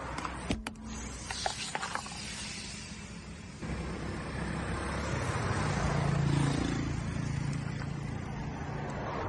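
Plastic cracking and crackling under a car tyre on concrete, a few sharp snaps in the first two seconds. Then the car's engine running and tyres rolling on concrete, a low hum growing louder midway.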